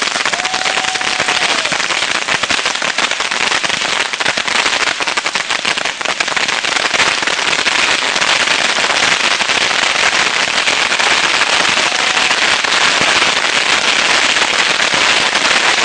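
Thousands of bottle rockets going off from one launcher at once, a dense, continuous crackling hiss with a few short whistles.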